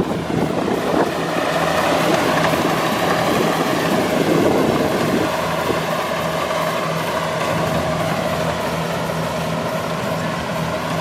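Kubota combine harvester running steadily under load, its engine and threshing machinery giving a constant drone.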